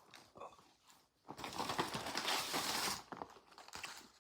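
Food packaging rustling and crinkling for under two seconds, with a few soft clicks and taps before and after.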